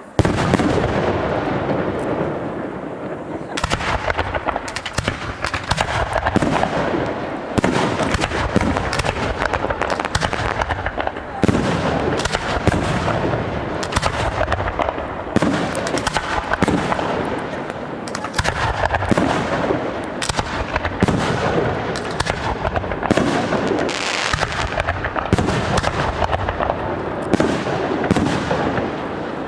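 Fireworks display: aerial shells bursting one after another in a dense, continuous barrage of bangs and crackle, with heavier bursts every few seconds.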